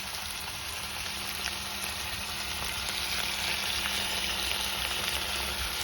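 Chicken pieces frying in oil in a pan over high heat, a steady sizzle as their water cooks off, with a few faint clicks.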